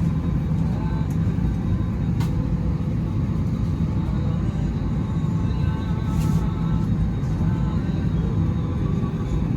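Steady low rumble of an Airbus A321neo airliner cabin, its air systems running, with a few faint clicks.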